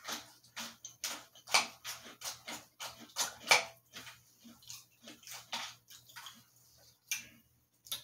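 A person chewing a mouthful of Cinnamon Toast Crunch cereal in milk: a run of close, crisp crunching and wet mouth noises, with a spoon stirring and knocking in a glass bowl.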